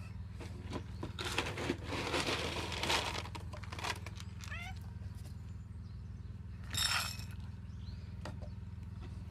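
Cats meowing: a few short calls, the loudest about two-thirds of the way in. There is a stretch of rustling about a second in, over a steady low hum.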